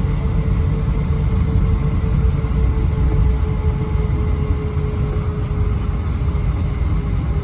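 Steady low rumble of an Airbus A320-231 heard from inside the passenger cabin: its IAE V2500 engines and the airflow, with a faint steady whine that fades about six seconds in.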